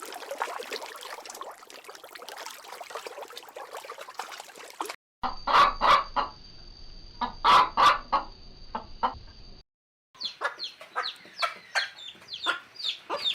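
Animal calls in three abruptly cut segments: first a dense chorus of many overlapping calls, then a handful of loud separate calls over a steady high hum, then quick repeated short calls.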